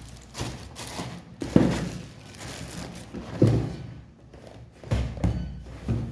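Unboxed items and their packaging being handled: about six sharp knocks and thuds with crinkling between them.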